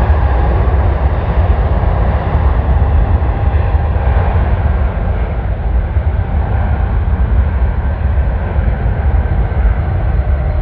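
Jet airliner engine noise: a loud, steady rumble with a deep low end, slowly growing duller as the aircraft moves off.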